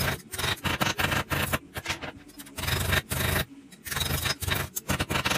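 Irregular scraping and rubbing in quick, uneven bursts.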